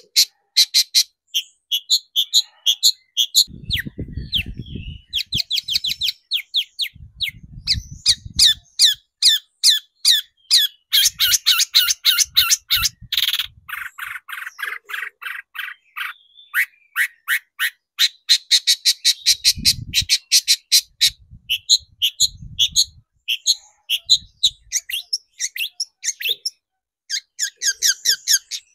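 Long-tailed shrike (cendet) singing in fast, harsh chattering runs of short repeated notes, several a second, broken by brief pauses.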